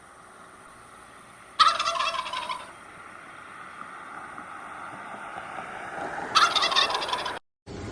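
A farm bird calling twice, each call a rapid rattling burst of about a second. The first comes a second and a half in and the second near the end, over a steady background hiss.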